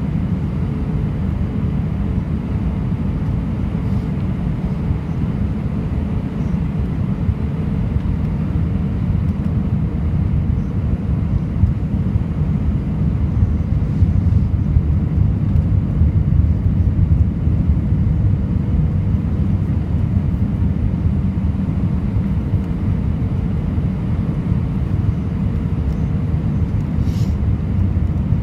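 Airbus A320 jet engines on approach to land: a steady deep rumble that swells slightly around the middle, with a faint steady hum above it.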